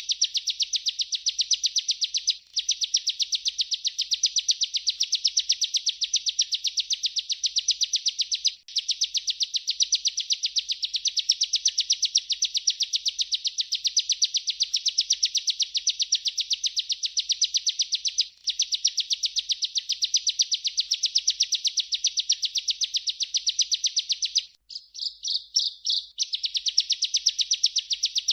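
Bar-winged prinia (ciblek) singing its long rolling trill (ngerol), a fast, even run of high notes held for many seconds at a time. It breaks only briefly three times, and stutters in short broken phrases just before the end.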